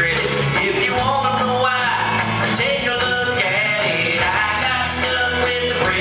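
A man singing a comedy country song over instrumental accompaniment.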